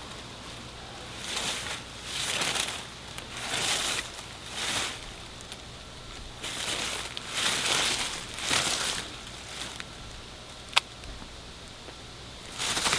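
Footsteps crunching and swishing through dry leaves and undergrowth, a dozen or so uneven steps, with one sharp click about eleven seconds in.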